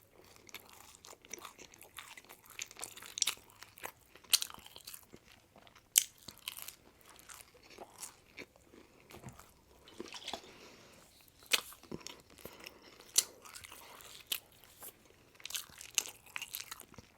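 A person chewing and biting into pizza, with irregular crunches and mouth clicks.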